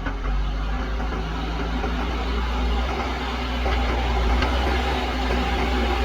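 JCB backhoe loader's diesel engine running steadily, a low even drone that grows a little louder about halfway through.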